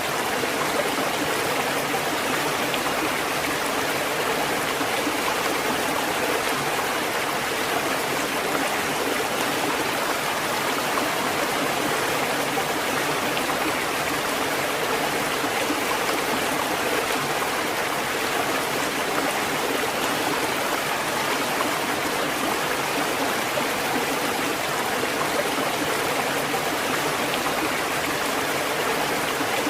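Continuous rushing water at an even level, a steady hiss with no swell and break of separate waves.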